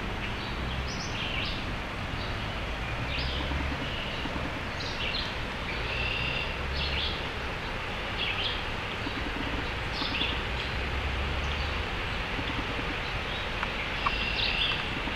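Steady rushing of the flooded Greenbrier River, with songbirds chirping repeatedly over it.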